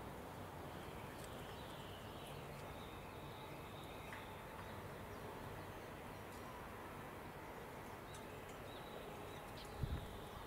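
Quiet garden ambience with faint, scattered bird chirps, and a brief low thump near the end.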